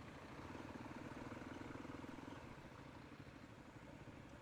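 Faint motorcycle engine running: a low, rapidly pulsing hum that is clearest for the first two seconds or so, then drops lower.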